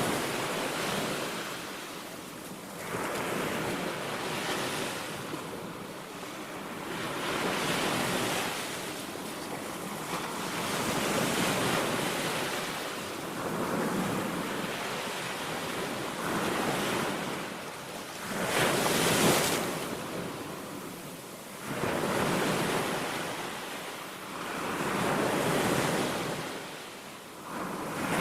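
Baltic Sea waves breaking on a beach, the surf swelling and falling back in slow surges every few seconds, the strongest about two-thirds of the way in, with wind on the microphone.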